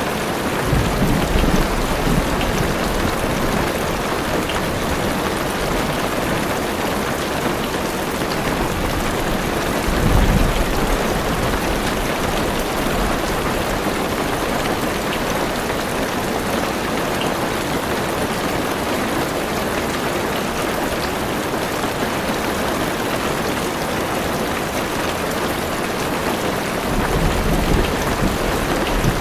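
Heavy rain pattering steadily on a car's roof and windows, heard from inside the car. Low thunder rumbles swell three times: about a second in, around the middle, and near the end.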